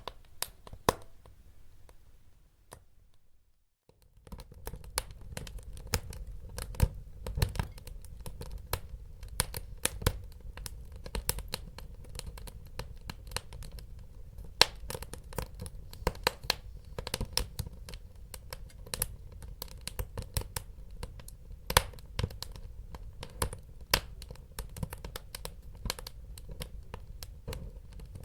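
Wood fire crackling in a fireplace: irregular sharp pops and snaps over a low, steady rumble of burning. About three seconds in, the sound drops almost to silence for a second or so, then the crackling resumes.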